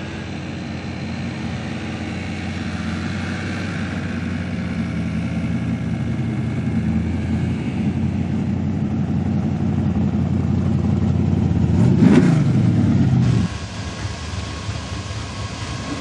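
Drag car's engine rumbling as the car drives slowly toward and past, growing louder and loudest about twelve seconds in, then cut off suddenly a second or so later.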